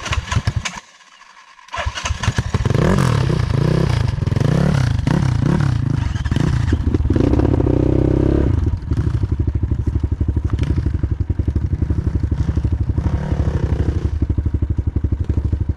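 Off-road motorcycle engine running hard. After a brief lull it revs up and down repeatedly from about two seconds in, holds high revs for a moment about halfway through, then settles to a steadier, lower run.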